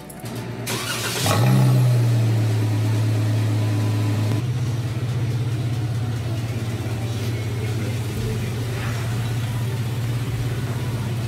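2015 Jeep Wrangler JKU's 3.6-litre V6 being started: the starter cranks briefly and the engine catches about a second in. It flares up loud for a moment, then settles into a steady idle.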